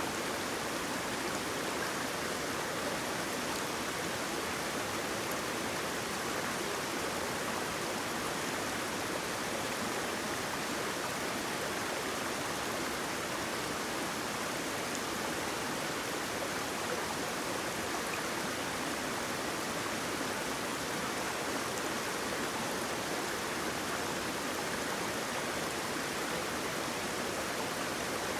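Waterfall: water pouring and rushing in a steady, even wash of sound, with no change or break.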